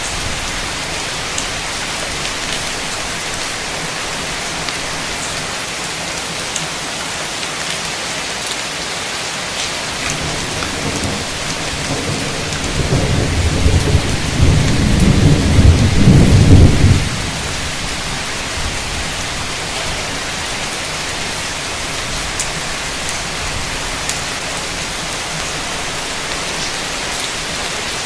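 Heavy rain falling steadily, with a roll of thunder that builds about ten seconds in, rumbles loudest for around four seconds, then cuts off, leaving the rain.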